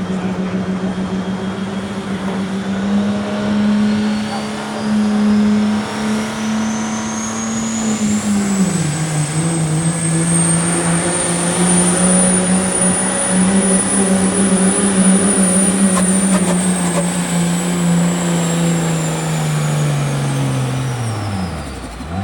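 Super street diesel pickup under full load on a pulling track, its turbocharger whistling high over the engine. The whistle rises to a peak midway and then falls. The engine note drops once about a third of the way through, and near the end it falls away sharply as the pull ends.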